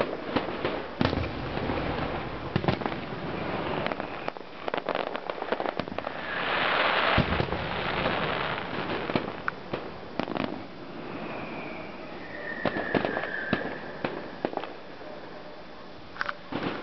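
Fireworks display: a run of sharp bangs and cracks from bursting shells, with a loud hissing crackle for about two seconds near the middle and a falling whistle a little later.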